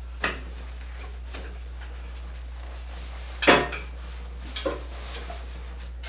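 A few sharp metal clanks and knocks from a steel bar and machine skates being worked under a heavy lathe to lift it. The loudest clank, with a short ring, comes about three and a half seconds in.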